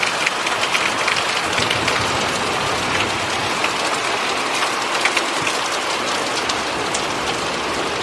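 Heavy rain falling steadily, with many small ticks of drops striking a hard surface close by.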